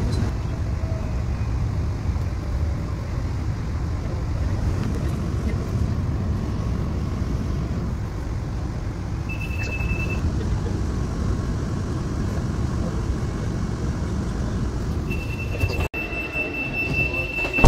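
Steady low rumble of a suburban electric train running on the rails, heard from inside the carriage. A short high-pitched beep comes about nine seconds in, and a longer high tone starts near the end.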